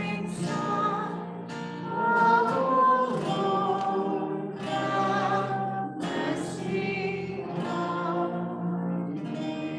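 A choir singing, with sustained sung notes and clear word consonants over a steady low accompaniment.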